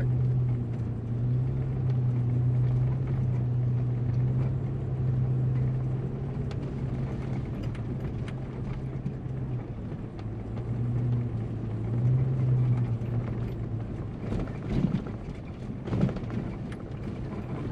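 Four-wheel drive driving slowly on a dirt track in low gear: a steady low engine drone that eases off and picks up again a few times, with scattered knocks and rattles from the rough ground and two louder knocks near the end.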